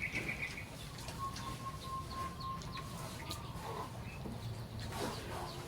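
Birds chirping and calling, over a steady low hum with a few scattered clicks.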